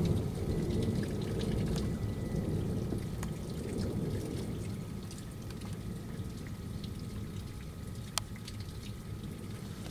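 Rain falling, with dripping and trickling water and scattered small drop ticks, and one sharp tick about eight seconds in. The tail of a thunder rumble dies away over the first few seconds.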